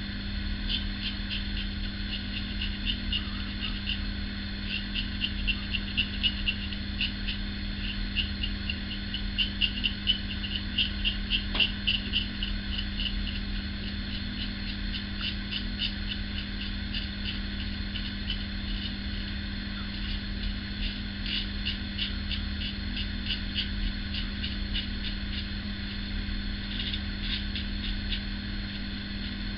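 Ever Ready 1924 single-edge safety razor scraping through lathered stubble in runs of short, quick strokes, each a brief rasp, busiest and loudest in the first half. A steady low hum lies underneath.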